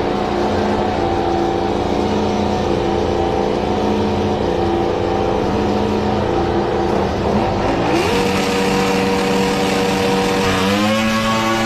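Diesel engine in a runaway, racing on its own at high revs: a steady loud engine note that climbs in pitch about two-thirds of the way through, then surges up and down near the end.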